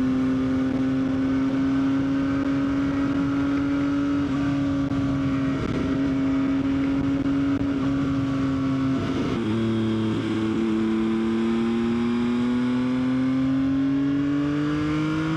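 Yamaha XSR900's inline-three engine running under way at a steady pitch. About nine seconds in the pitch drops, then climbs steadily again as the bike gathers speed.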